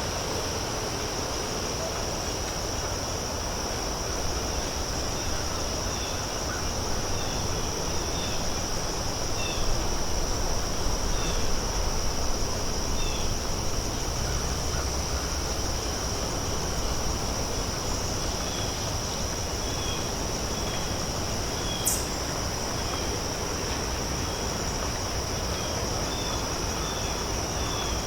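Outdoor field ambience dominated by a steady, high-pitched insect drone, with scattered faint short bird chirps and a single sharp tap about two-thirds of the way through.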